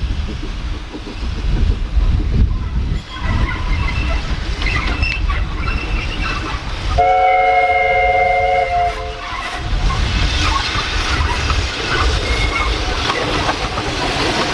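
Wind on the microphone, then a railway locomotive's whistle sounding a steady chord of several notes for about two seconds, a little past the middle. After that comes a train running by on the rails with wheel clatter.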